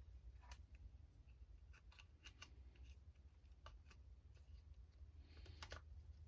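Faint, scattered clicks and taps of small RC truck parts being handled, with a short cluster of clicks about five and a half seconds in, over a low steady hum.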